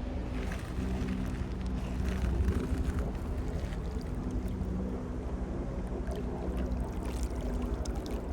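Lakeshore ambience: wind rumbling on the microphone over open water, with a faint steady low hum and scattered light ticks and splashes.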